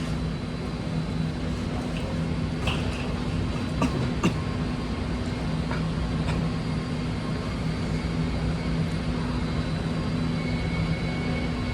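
BART train standing at a station platform: a steady low electrical and mechanical hum from the idling railcar, with a few light clicks about three to four seconds in.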